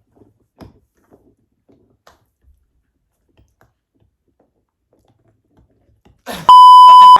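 Faint scattered clicks of dogs chewing on tough chew bones. Near the end, a loud, steady, high censor bleep covers a spoken word.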